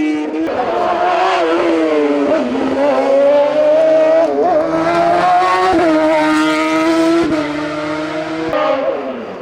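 Lombardía LBM 01 hillclimb racing prototype's engine at high revs, climbing and briefly dropping in pitch at each gearshift as the car drives flat out up the course. Near the end the pitch falls and the sound fades as the car moves away.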